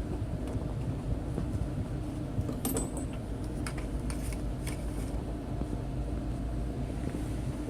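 Passenger train running, heard as a steady low rumble with a faint hum. A few light metallic clinks and rattles come between about two and a half and five seconds in.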